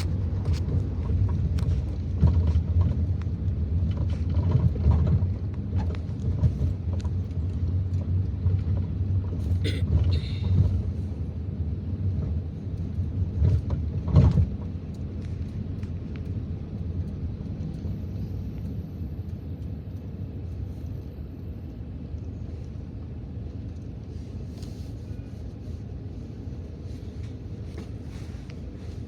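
Steady low rumble of a car's engine and tyres heard from inside the cabin while it drives. A few knocks come through, the loudest about halfway, after which the rumble drops quieter.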